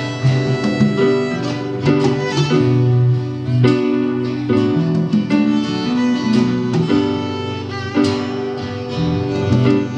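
Live band playing an instrumental passage between sung lines: rhythmic guitar strumming under a held, string-like melody line.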